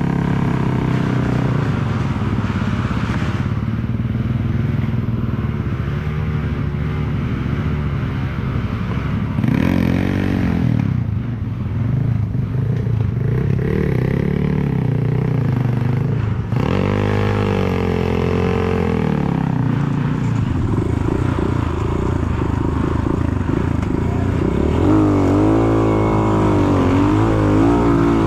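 Enduro motorcycle engine working through deep mud, the revs rising and falling unevenly with repeated throttle blips and a wavering, higher-revving stretch near the end.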